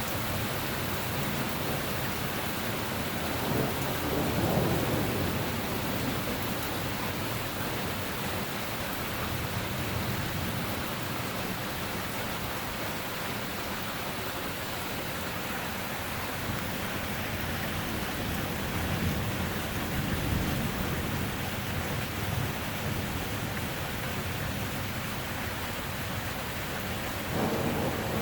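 Steady rain with low rolls of thunderstorm thunder rumbling in three times: about four seconds in, a longer roll from about seventeen to twenty-one seconds, and again near the end.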